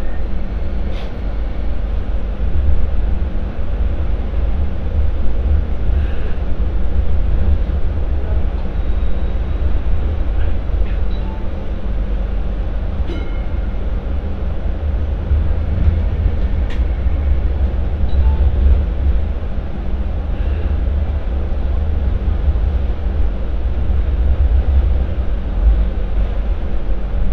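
MTR Light Rail Phase IV light rail vehicle running along the track: a steady low rumble with a few sharp clicks here and there.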